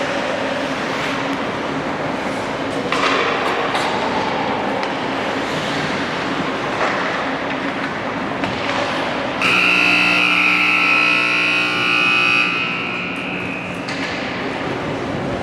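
Steady outdoor background noise, then a horn sounds one long blast about nine seconds in, loud for about three seconds and fading off over the next second or so.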